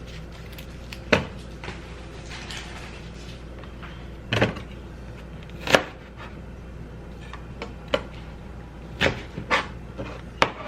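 Kitchen knife knocking on a cutting board as an onion is cut, in irregular sharp knocks, the loudest a little past the middle.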